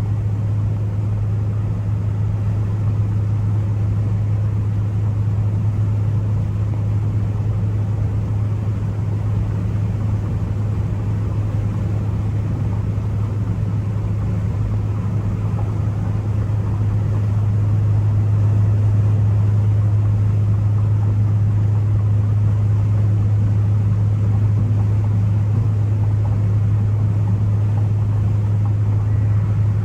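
Ford Focus ST cruising at a steady speed: a constant low engine and road drone, getting a little louder about two-thirds of the way through.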